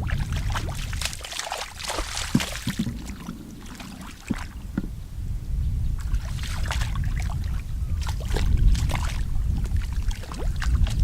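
Water splashing and sloshing in irregular spells, strongest early on and again in the second half, over a low steady rumble.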